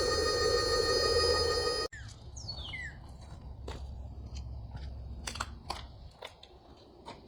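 Truck bed air mattress's built-in rechargeable electric pump running with a steady whine, then cutting off abruptly about two seconds in as the mattress reaches full inflation.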